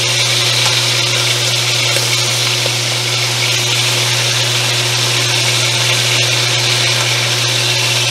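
Chicken pieces sizzling steadily as they fry in oil in a stainless steel pan, over a steady low electric hum.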